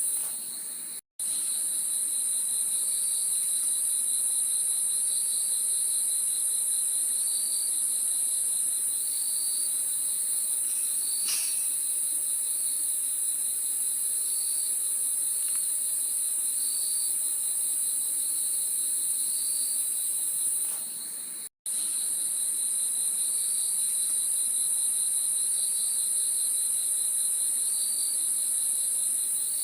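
Crickets chirping: a steady high-pitched trill with a lower chirp repeating about every second and a half. The sound cuts out briefly twice, about a second in and about two-thirds of the way through.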